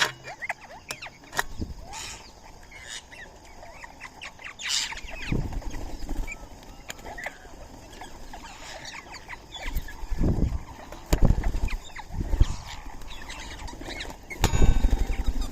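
Birds chirping and calling in short, scattered notes, with sharp clicks and several dull low thumps, the loudest near the end.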